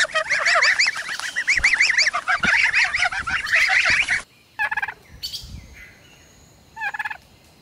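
A group of goslings peeping rapidly and continuously, many high chirping calls overlapping. About four seconds in the sound changes abruptly, and only two single calls follow, well apart.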